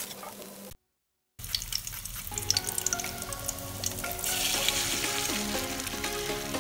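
Egg and onion frying in hot oil in a steel wok, a crackling sizzle full of fine pops, cut by a brief gap of silence about a second in. From about four seconds in the sizzle grows louder and hissier as fresh beaten egg is poured into the hot oil.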